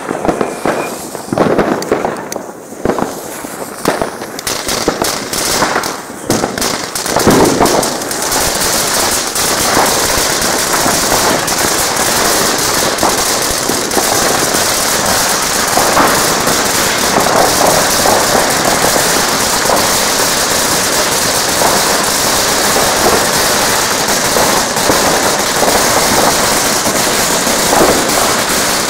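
Fireworks and firecrackers going off: separate sharp bangs for the first several seconds, then from about eight seconds in a dense, continuous crackling.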